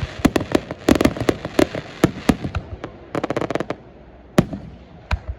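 Fireworks display: rapid volleys of sharp bangs and crackle for about two and a half seconds, a second quick cluster just after three seconds, then a few single bangs spaced out near the end.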